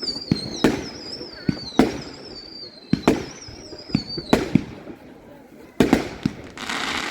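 Fireworks going off: a string of sharp bangs, some in quick pairs, under a high wavering whistle that slides slowly down and stops a little over four seconds in. Near the end comes a crackling fizz.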